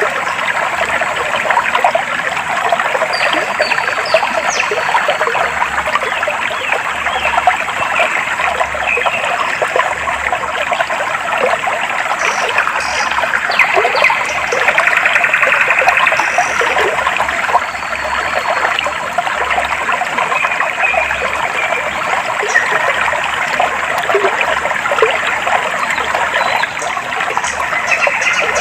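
Clear water flowing and babbling steadily over stones in a shallow stream, with short high bird chirps now and then.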